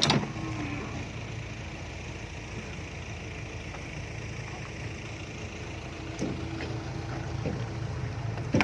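Dump truck's diesel engine running steadily at low revs, with a sharp knock right at the start.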